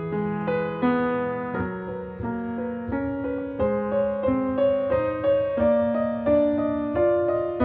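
Background piano music: a slow, gentle melody of single notes over held low notes, about one or two new notes a second.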